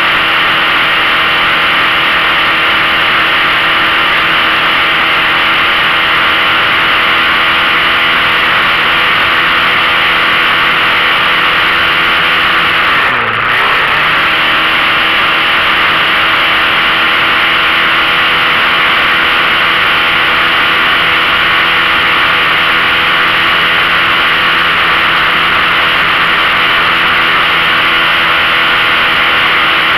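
15 hp outboard motor running steadily at speed, over a broad rushing hiss. About halfway through, its pitch drops briefly and then picks back up.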